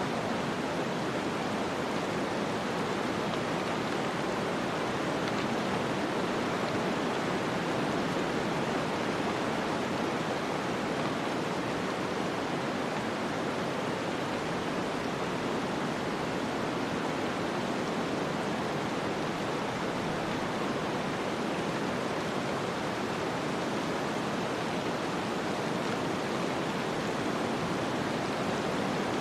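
Steady snowstorm wind as an ambience bed: an even, unbroken rushing hiss with no gusts, knocks or other distinct events.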